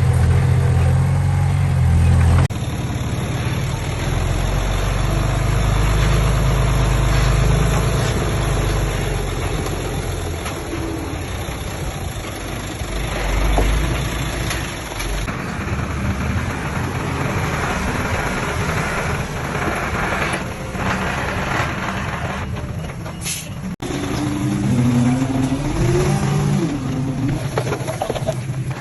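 Diesel engines of dump trucks and a small bulldozer running and working, with engine revs rising and falling. The sound changes abruptly about two seconds in and again near the end.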